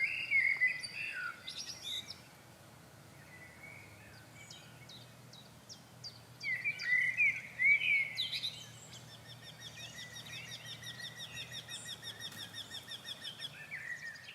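Songbirds singing: short chirping phrases at first, a louder burst of song about six seconds in, then a fast, even run of repeated notes toward the end.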